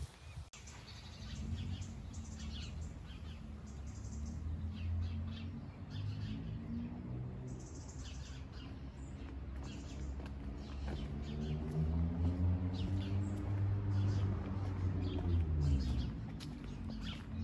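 Small birds chirping in short, scattered calls over a low hum that slowly wavers in pitch.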